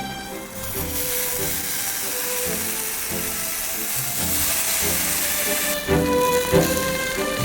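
Food sizzling as it cooks over an open fire, a steady hiss, with background music underneath.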